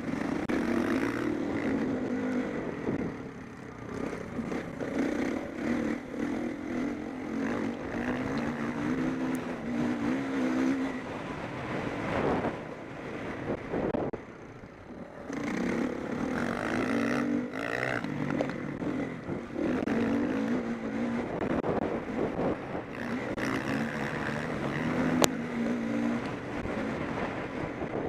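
Motocross bikes racing on a dirt track, their engines revving up and down as the riders work the throttle and shift. The engine noise rises and falls in waves, dropping away briefly twice, with a sharp click about 25 seconds in.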